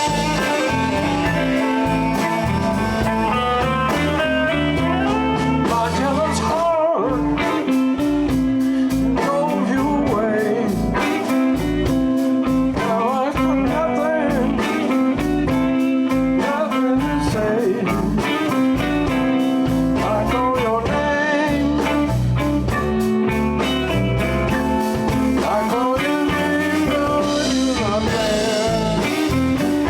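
Live blues band playing an instrumental passage: drums and bass keep a steady beat under guitar, with a lead line bending up and down in pitch.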